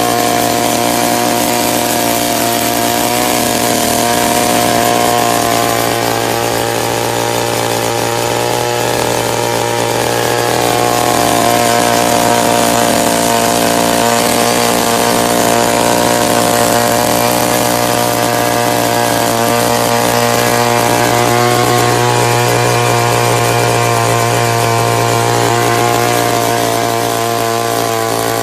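Small petrol engine of a motorized earth auger running steadily at speed, its pitch wavering slightly.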